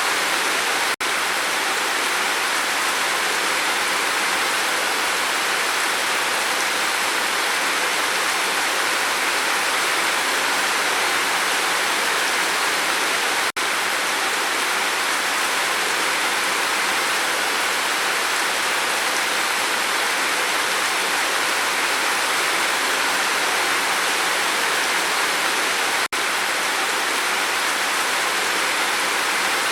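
Steady rain, an even rushing noise with no thunder, that cuts out for an instant three times, about every twelve seconds.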